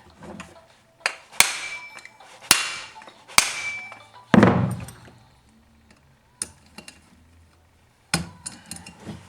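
Metal tools and chainsaw parts knocking and clinking during disassembly: a handful of sharp, irregular metallic strikes, some ringing briefly, with one heavier dull thud about four seconds in.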